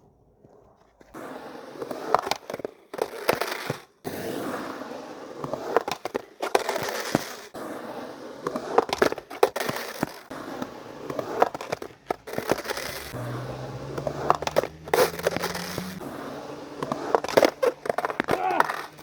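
Skateboard wheels rolling and scraping on rough pavement, with sharp clicks and knocks from the board. It starts about a second in and stops briefly a few times.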